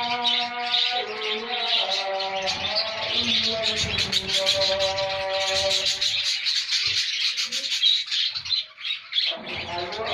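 A colony of budgerigars chattering and chirping continuously, many birds at once. Underneath, a held tone with a pitch that steps up and down now and then drops out about six seconds in and returns near the end.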